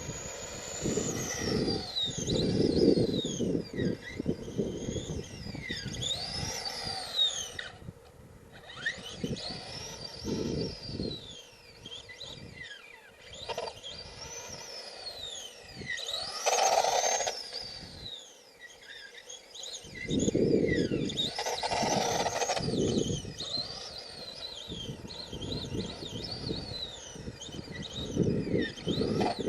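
Brushed electric motor of an HPI Wheelie King RC monster truck (a Traxxas 12-turn motor on a 2S battery) whining, rising and falling in pitch over and over as the throttle is pushed and let off. Bursts of low rumble come with it, with short lulls about eight seconds in and again just before twenty seconds.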